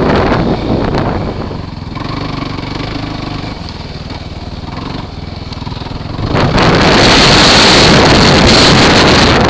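Kawasaki KFX ATV's engine running during a ride, with wind buffeting the microphone. The wind eases for a few seconds, leaving the engine's steady note, then rushes loudly again from about six seconds in.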